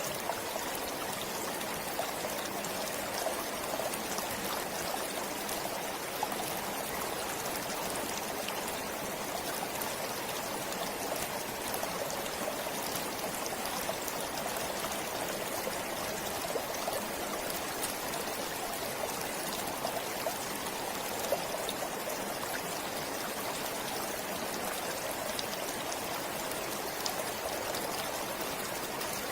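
Stream flowing steadily: a continuous rush of running water with many small splashes and trickles.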